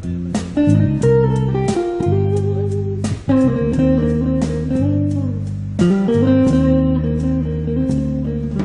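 Amplified band music led by plucked guitar, with picked melody notes over held low bass notes.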